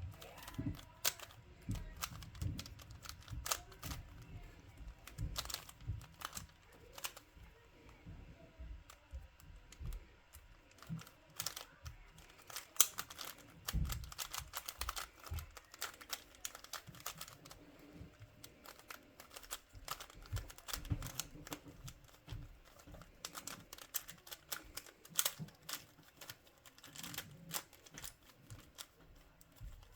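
Plastic twisty puzzle cube being turned rapidly by hand: a dense, irregular run of sharp clicks and clacks as its layers snap round.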